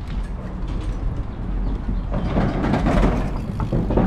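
Bicycle riding along, heard through a bike-mounted action camera: wind buffeting the microphone as a low rumble, with tyre noise and small knocks and rattles from the bike. It gets louder from about two seconds in.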